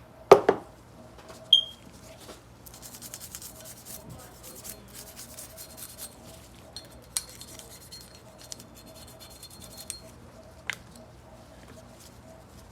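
Ballistol aerosol can spraying onto a Glock 19's stripped slide, a sputtering spray lasting about seven seconds. It is preceded by a knock of handling and a light metallic click, and a sharp tap comes near the end.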